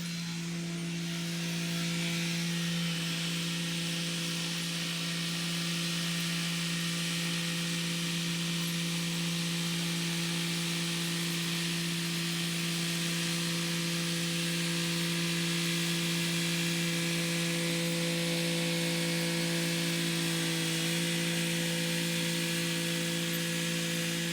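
Kubota SL35 tractor's diesel engine running steadily under load while its rotary tiller churns the soil, a constant drone with a hiss over it. It swells slightly about two seconds in, and the engine note dips briefly near the end.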